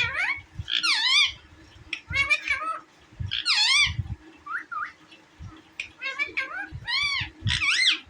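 Parrot calling in bursts of sweeping, rising-and-falling squawks and warbles, a burst about every second.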